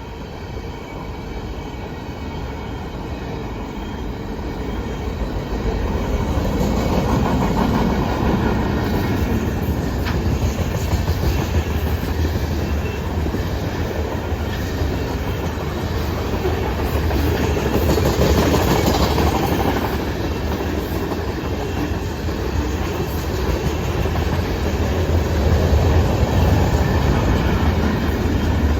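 Norfolk Southern manifest freight train's cars rolling past, with steady rumble and clickety-clack of wheels over the rail joints; it grows louder over the first few seconds, then holds.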